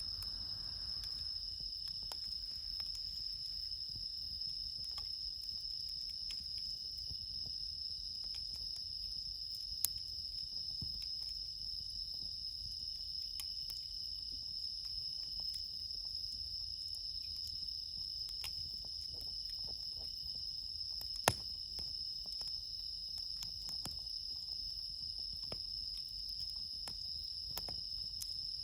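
Steady night chorus of crickets with one high, even trill on top, and a campfire crackling underneath with scattered small clicks and two sharper pops, about ten and twenty-one seconds in.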